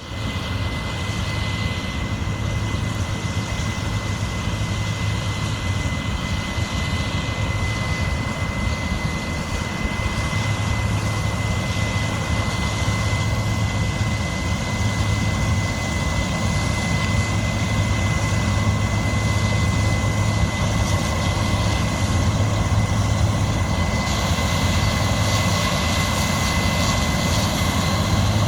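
Heavy diesel farm machinery running steadily under load, a deep engine hum with a constant high whine over it.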